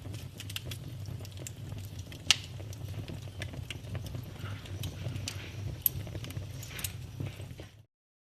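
Wood fire in a fireplace crackling and popping, with irregular sharp snaps over a steady low rumble and two louder pops. The sound cuts off abruptly near the end.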